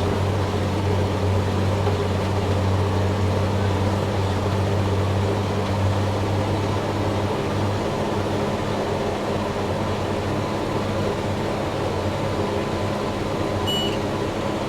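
Cummins diesel engine of a self-propelled crop sprayer running steadily under load, heard as a low, even drone inside the cab. A short high beep sounds near the end.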